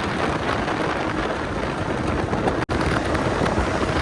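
Steady rushing wind noise on the microphone with a vehicle engine running beneath it, during a fast ride over sand dunes. The noise drops out suddenly and briefly about two and a half seconds in.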